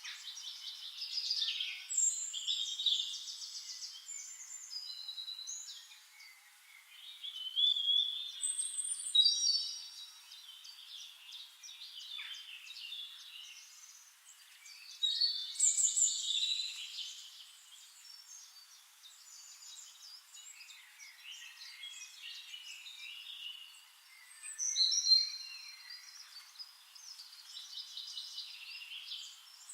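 Songbirds singing: overlapping high chirps, fast trills and whistles, in louder bursts every several seconds.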